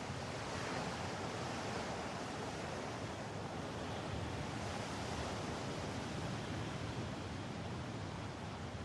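Steady rushing noise of wind and water, as heard from a boat moving along.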